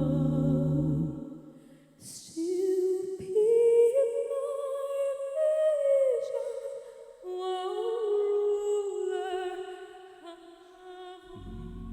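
A held, sung chord fades out, and a single voice hums a slow melody without words, with some vibrato. A low, full chord comes in again near the end.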